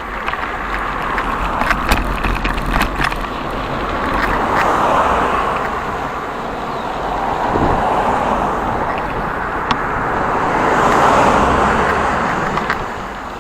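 Road traffic: cars passing one after another, the noise swelling and fading three times, with a few sharp clicks and a low rumble underneath.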